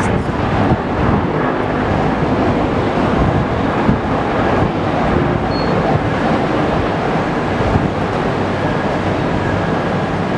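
Yellow-banded JR E231 series electric commuter train running across an elevated railway bridge: a steady rushing rumble of wheels on rail.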